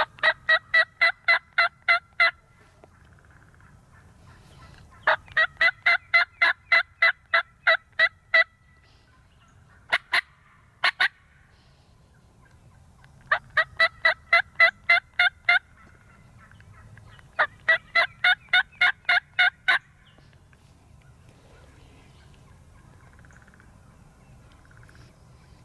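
Turkey yelping: four runs of about eight to ten evenly spaced notes, roughly four a second, with a short pair of notes about ten seconds in.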